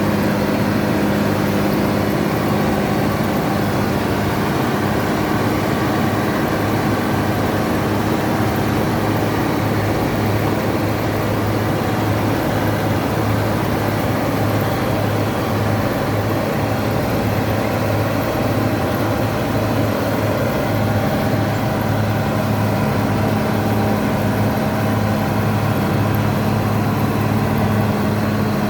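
Bizon Rekord combine harvester's 6CT107 six-cylinder diesel engine running steadily at working speed, with the whir of the machine working rye. The pitch holds even, with no revving or stops.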